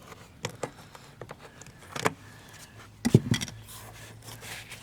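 Handling noise from the Jeep door's wiring harness and rubber boot being worked by hand: scattered small clicks and knocks, with a louder cluster of knocks about three seconds in.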